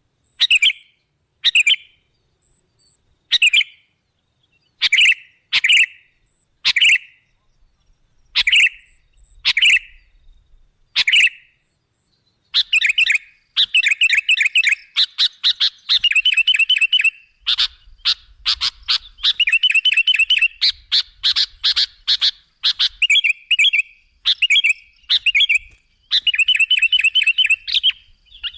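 Sooty-headed bulbul (kutilang) calling: short, separate calls about once a second. About halfway through, these turn into fast runs of quickly repeated notes.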